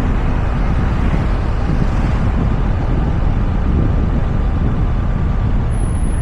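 Steady road and wind noise of a Toyota RAV4 on the move, heard from a camera mounted on its roof, deep and even throughout.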